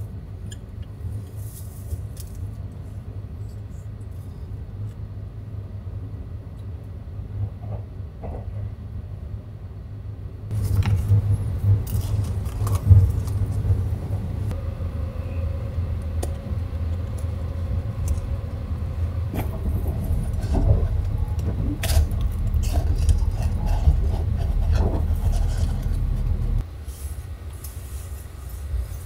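Train running on the rails: a steady low rumble with light rattles and clicks. From about ten seconds in it is louder and clatters more, then drops back abruptly near the end.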